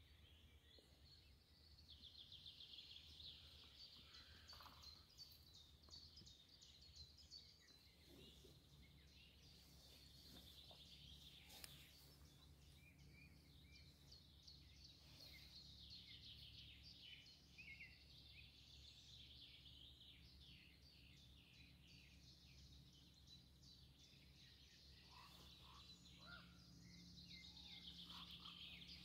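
Faint chorus of wild songbirds, many trilling and chirping songs overlapping, over a low steady hum.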